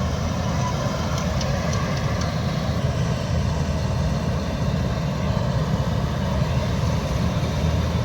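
A heavy diesel farm-machine engine, a tractor's or a combine harvester's, running steadily with a deep, even sound.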